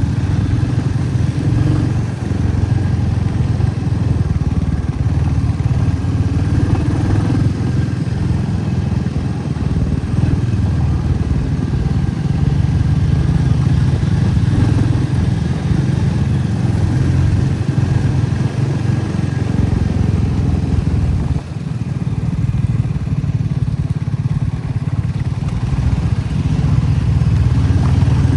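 Motorcycle engine running steadily while riding along, with a brief drop in level about three-quarters of the way through.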